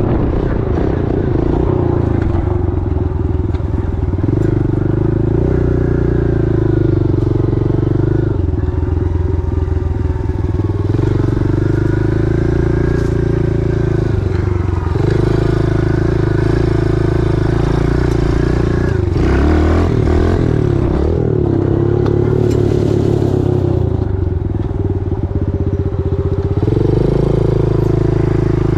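Pit bike's small single-cylinder engine running under riding load, its note rising and falling every few seconds as the throttle is opened and closed and gears change.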